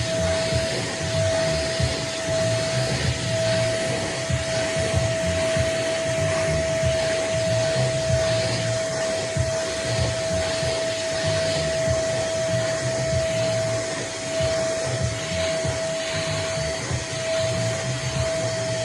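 Nunix wet and dry vacuum cleaner running steadily: a loud rush of air with a constant motor whine.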